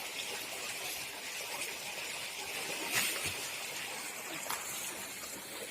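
Steady outdoor hiss, with a sharp click about three seconds in and a fainter one later.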